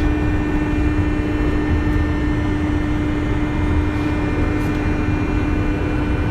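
Interior running noise of a JR West 201 series electric train under way: a steady rumble with a constant hum held at one pitch throughout.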